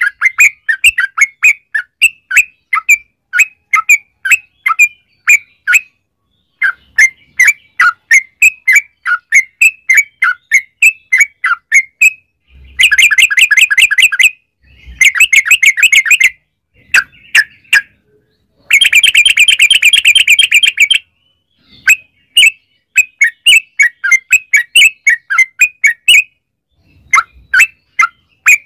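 Yellow-vented bulbul singing: strings of quick bubbly chirps, several a second, broken three times by a fast rolling trill, the longest and loudest a little past halfway.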